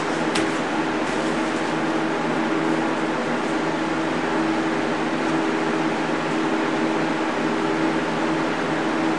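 Electric fan or blower running steadily at high speed: an even rush of air over a constant motor hum. A short click comes about half a second in.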